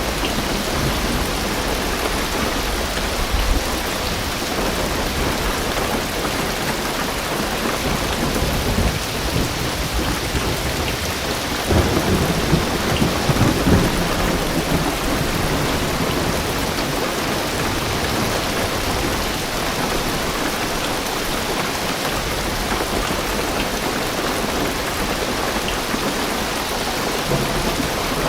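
Heavy rain drumming steadily on a car roof and windows, heard from inside the car. Thunder rumbles and swells for about two seconds, starting about twelve seconds in.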